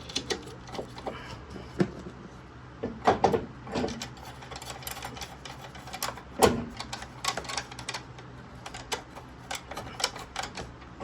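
Scattered metal clicks and knocks of hand tools and suspension parts being handled during a front strut refit, with two louder knocks about three and six and a half seconds in, over a low steady hum.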